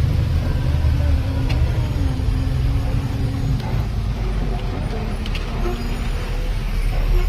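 Truck engine running while driving, a steady low rumble with road noise and a faint engine note that drifts slightly in pitch.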